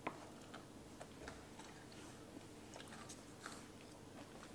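Faint chewing with scattered small crunches: a mouthful of peanut butter cookie dough with pretzel pieces and chopped peanuts being eaten.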